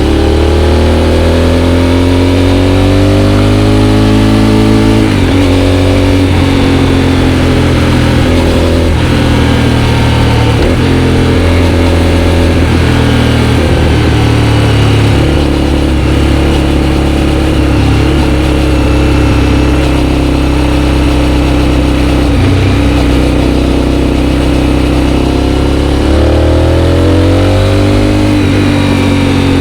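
Aprilia Shiver 750 V-twin with a GPR aftermarket exhaust, under way. The engine climbs in pitch as it accelerates, drops sharply with a gear change about five seconds in, then runs at a fairly steady speed for a long stretch. Near the end it rises and drops again with another shift.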